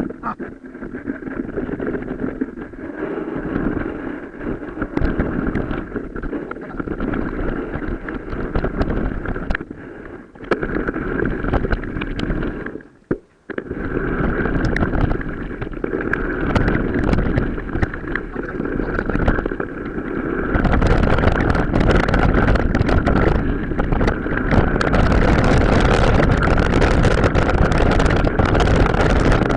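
Wind buffeting the microphone and a mountain bike rattling over a rough off-road track, with many quick clicks and knocks, played back sped up. The sound cuts out briefly near the middle and grows louder for the last third.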